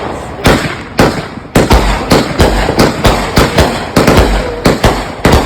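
Consumer fireworks cakes firing a rapid string of aerial shots, sharp booms coming about three to four a second. A couple of shots come a half-second apart at first, then the firing quickens into a dense barrage.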